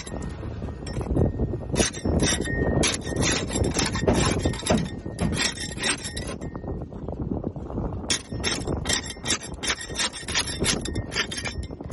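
Barnacles being scraped off a boat hull: quick, irregular rasping and clicking strokes, pausing briefly a little past the middle.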